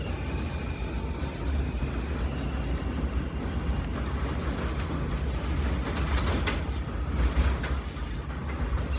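New York City Subway L train running on the rails: a steady low rumble of wheels and cars, with a high wheel squeal dying away at the start and a few sharp clicks later on.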